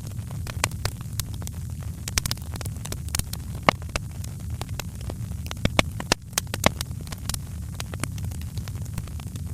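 Wood fire in a fireplace crackling: irregular sharp pops and snaps, a few louder ones scattered through, over a steady low rumble.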